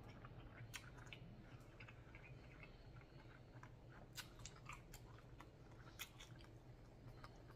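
Faint chewing of a mouthful of pho noodles: soft, irregular wet mouth clicks over quiet room hiss.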